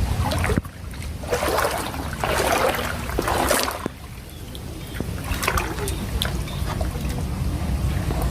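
Shallow floodwater splashing and trickling, loudest between about one and four seconds in, over a low rumble of wind on the microphone.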